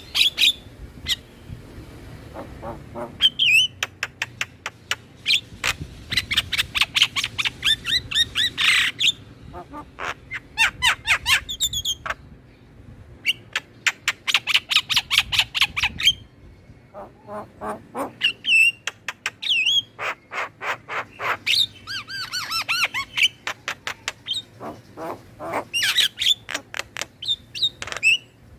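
Starling (jalak) singing a rapid, chattering song: fast runs of clicking notes mixed with harsh squawks and short whistled notes, coming in bursts with brief pauses.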